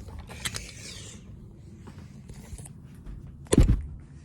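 Scraping and rustling handling noises, with one loud thump about three and a half seconds in.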